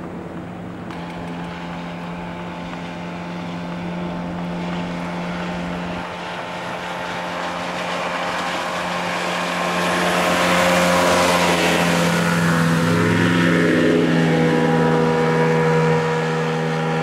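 Motorboat engine running steadily under way, with the rush of water and wind. It grows louder and the rush stronger about halfway through.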